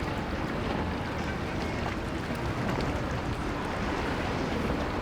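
Boat engine running through choppy inlet water, mixed with waves and steady wind noise on the microphone.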